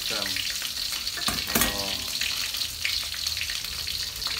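Battered mushroom pieces deep-frying in hot oil in a wok: a steady sizzle with fine spitting crackle, the grease spattering. A metal spatula stirs them, with a sharp knock about one and a half seconds in, and a couple of short voice-like sounds come near the start and at the knock.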